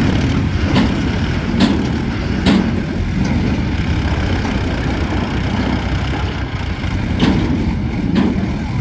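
Tractor diesel engines running steadily under a heavy pull, trying to drag a stuck vehicle out of a river. A few sharp knocks break through the rumble: several in the first few seconds, then a couple more near the end.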